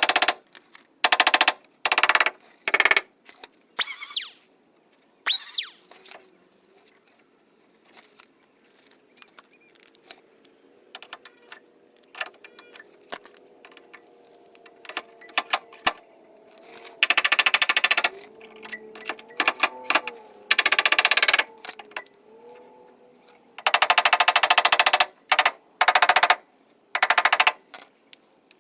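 Stud welder gun firing in a series of short crackling bursts, up to about a second each, at irregular intervals, as pins are spot-welded onto the thin sheet-steel truck bedside to pull out the dent. A faint steady hum runs under the quiet gaps between bursts.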